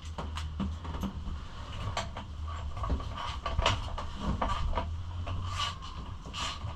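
Ratchet wrench with an extension and 8 mm socket backing out a bolt on a pit bike: irregular clicks and light metal clinks.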